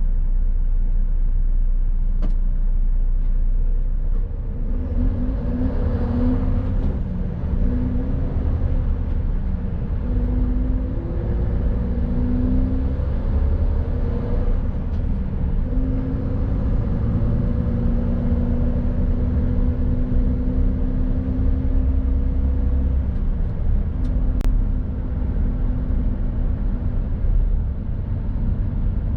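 Mercedes-Benz Actros truck's diesel engine running under way over a steady low road rumble. About five seconds in it pulls harder, its note rising in short steps with brief breaks as it changes up through the gears, then settling to a steady drone. A single sharp click comes near the end.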